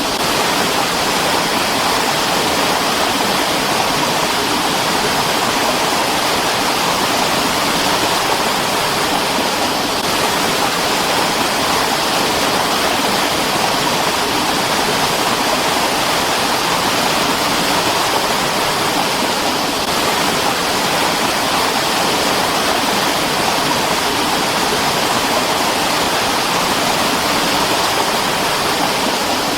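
Mountain stream running: a steady, unbroken rush of water.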